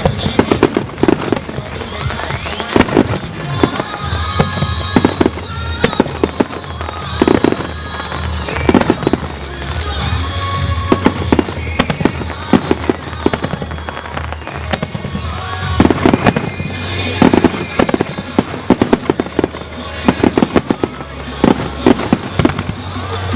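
Fireworks shells bursting in many sharp bangs, some in quick clusters, over music played on loudspeakers for a display synchronised to music.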